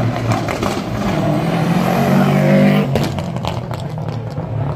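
Rally car engine accelerating hard, its pitch rising for about two seconds. About three seconds in the revs drop suddenly, and the engine then runs at a lower, steadier note with a few sharp cracks.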